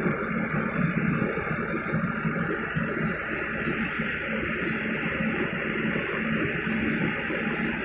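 Excavator's diesel engine running steadily with a low drone and a rushing noise over it.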